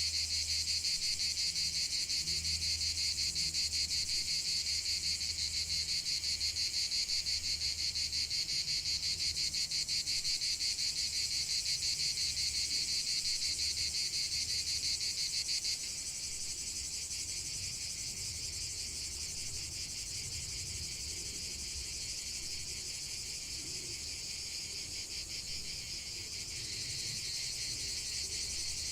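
A dense, continuous chorus of insects trilling, with a fast, even pulse and a high pitch. It drops a little about halfway through and picks up again near the end.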